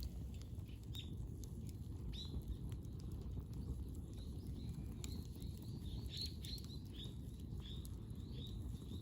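A small bird calling: a run of short high chirps, each dropping quickly in pitch, sparse at first and then coming in quick succession, over a steady low rumble and a few faint clicks.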